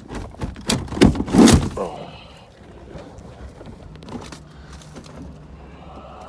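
A quick cluster of loud knocks and thuds about a second in, then a low steady background hum with a few faint ticks.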